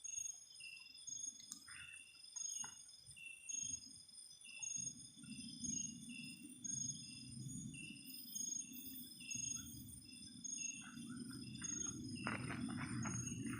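Night insect chorus: crickets giving steady high trills and regular chirps about every two-thirds of a second. From about five seconds in, a low rumble joins, with rustling near the end.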